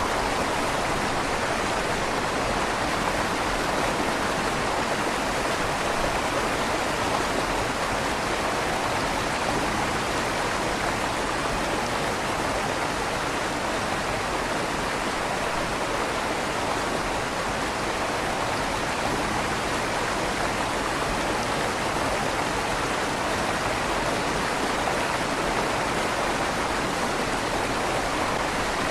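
River water flowing steadily beneath a stone bridge, a constant rushing with a slight echo from inside the bridge's tunnel.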